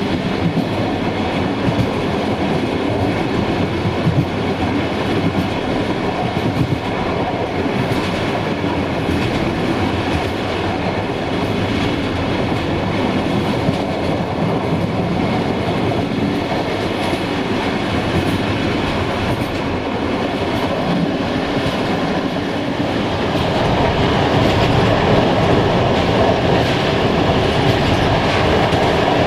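Passenger train hauled by a 060-DA (LDE2100) diesel-electric locomotive running along the line: a steady rumble of the wheels on the rails with occasional clacks over the rail joints. It grows a little louder about 23 seconds in.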